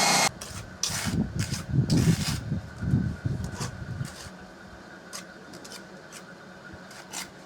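An electric drill boring into brick stops just after the start. Then comes a few seconds of irregular rubbing, scraping and light knocks as the brick and tools are handled, dying away after about four seconds.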